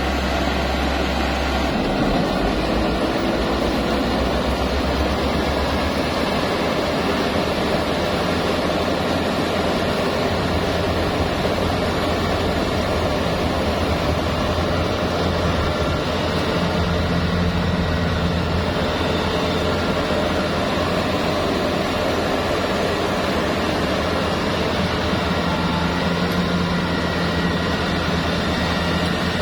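Bimo Plus rice harvester running steadily, its engine humming under a dense mechanical noise, with a change in the low hum about two seconds in.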